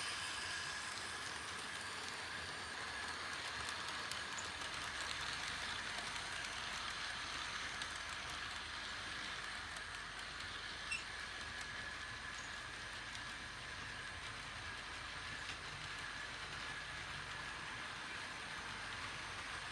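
HO-scale model train running on its layout: a steady whir of the locomotive motors and wheels on the track, with a thin high whine. There is a single click about eleven seconds in.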